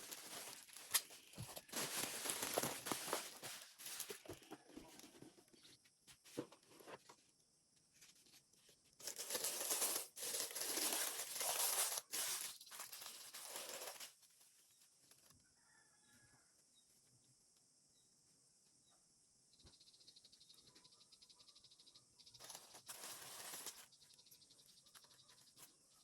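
Packaging being handled: plastic and cardboard crinkling and rustling in bursts, at the start, again around ten seconds in, and briefly near the end.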